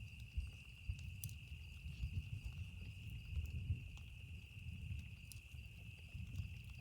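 Campfire crackling, with scattered sharp pops over a low fluctuating rumble, and a steady high-pitched chirring of insects behind it.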